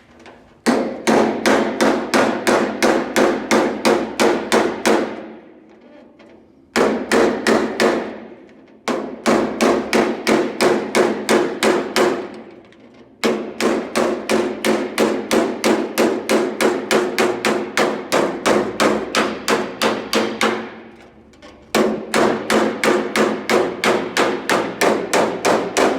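Panel-beating hammer striking the steel sheet of a car door edge, fast and even at about three blows a second, each blow with a short metallic ring. The strikes come in five runs with brief pauses between them.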